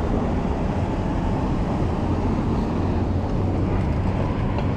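Steady low rumble of city street traffic and wind noise heard while riding a bicycle.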